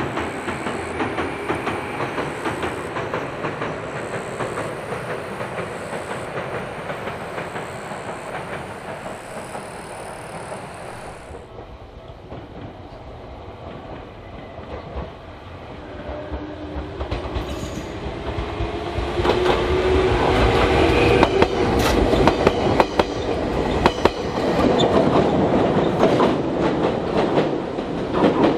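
Ueda Electric Railway electric train running on its line. For about eleven seconds there is steady running noise, then the sound cuts to a quieter spot. From there a train approaches and passes close by at its loudest, with a whine that rises in pitch and the wheels clicking over rail joints.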